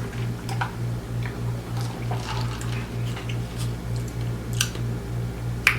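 A few light clinks and taps of drink containers being handled, with faint liquid sounds, over a steady low hum that pulses about four times a second.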